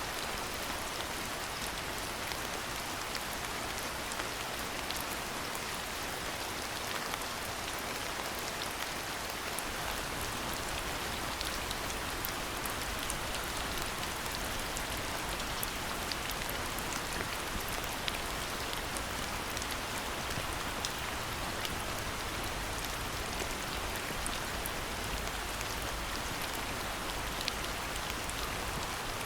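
Steady rain falling, a dense even hiss with many single drops ticking sharply close by.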